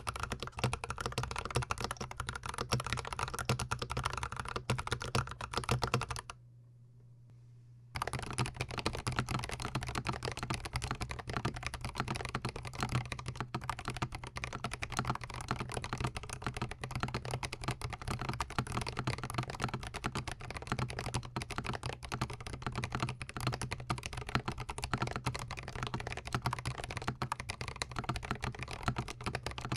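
Continuous fast typing on a GMMK Pro gasket-mount mechanical keyboard, recorded with the microphone very close to the keys. The typing breaks off for about a second and a half around six seconds in, then resumes.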